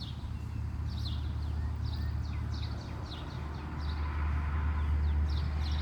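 Small birds chirping, short falling chirps about two a second, over a steady low rumble of distant road traffic that swells in the second half as a car goes by.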